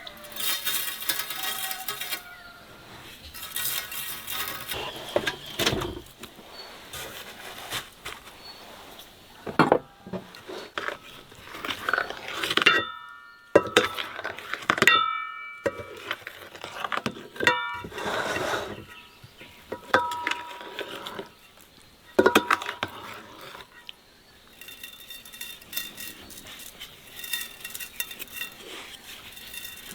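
Dishes and metal kitchen utensils clinking and knocking irregularly during food preparation, some strikes leaving short ringing tones.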